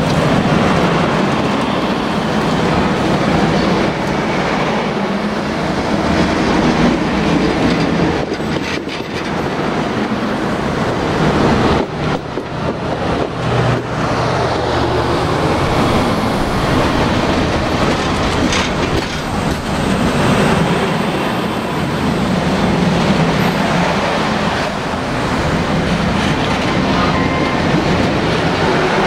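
Railroad passenger cars rolling past at close range: a steady rumble of steel wheels on rail with a few sharp clacks.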